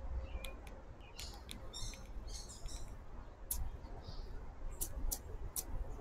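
Small birds calling: short sharp chip notes scattered throughout, with a brief run of twittering about one to three seconds in, over a low steady rumble.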